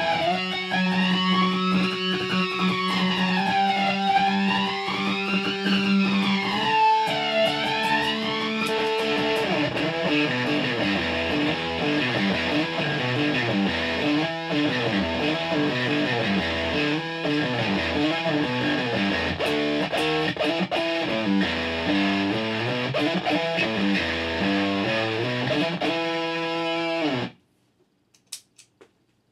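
Electric guitar played through a pedalboard of effects. For the first several seconds, held notes carry a sweeping effect that rises and falls every couple of seconds. Then a long passage of changing notes follows and stops abruptly near the end, leaving a few faint clicks.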